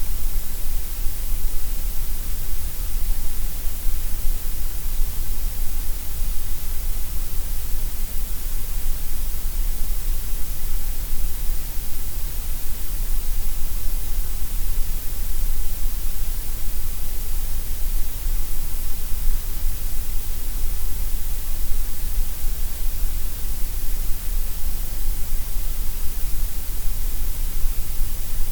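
Steady synthetic grey noise: an even, unchanging hiss that is heaviest in the deep bass and the highest treble and thinner in the middle.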